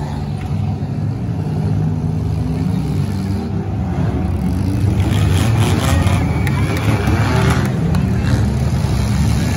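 Demolition derby cars' engines running and revving in a steady low rumble, with a few knocks in the second half as the cars push and grind against one another.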